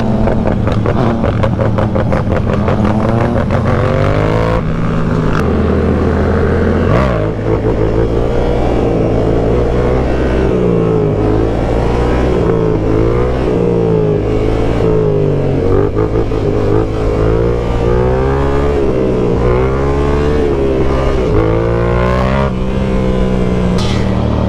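Yamaha R7's parallel-twin engine heard from the rider's seat while riding. It holds a steady note for the first few seconds, then is revved up and down over and over, with wind rushing past.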